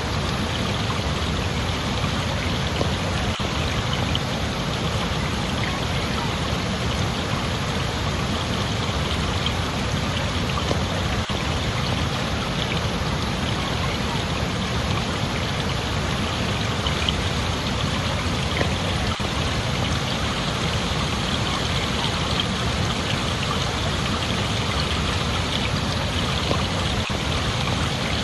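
Steady, even rush of running water, such as a stream, with no breaks or changes.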